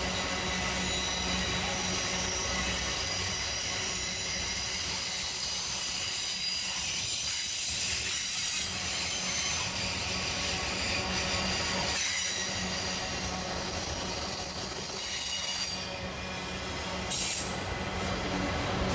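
Train rolling past with its wheels squealing against the rails: shrill, steady high squeal tones over the rumble of the cars, with a short louder squeal near the end.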